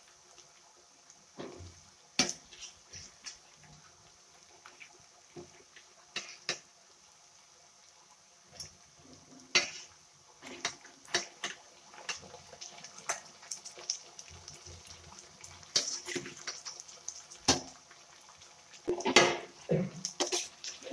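Food frying in oil in a wok, a faint steady sizzle, with scattered clinks and knocks of a utensil and raw chicken pieces going into the pan, busier and louder near the end.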